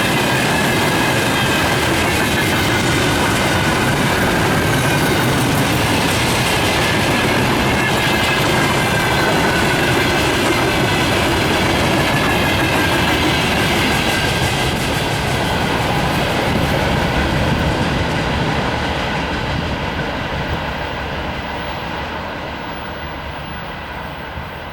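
Freight train wagons rolling past on steel rails, wheels clattering over the rail joints with a faint, wavering high-pitched wheel squeal. The sound fades away over the last several seconds as the train moves off.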